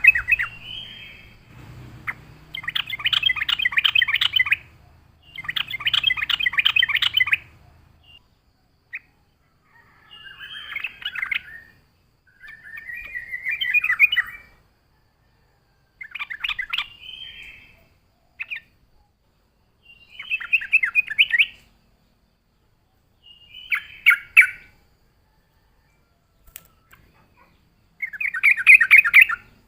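Yellow-vented bulbul (trucuk) singing: about ten separate phrases of rapid chattering notes, each one to two seconds long, with short pauses between them.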